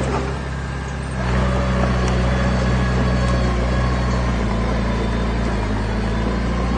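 Heavy diesel engine of an earthmoving machine running steadily, picking up and running louder from about a second in.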